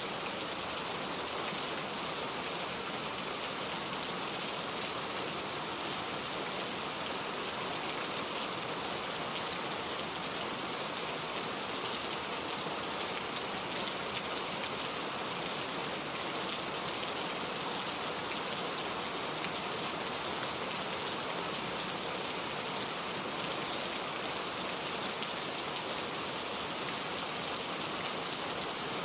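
Steady rain falling: an even hiss of many drops with fine scattered patter, unchanging throughout.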